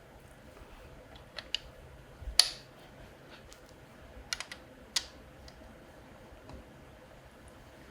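Scattered sharp clicks and knocks of tools and parts being handled during engine assembly, with the loudest knock about two and a half seconds in.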